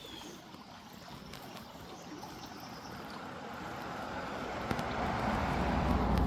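Running creek water, a steady rushing noise that swells louder over the last few seconds.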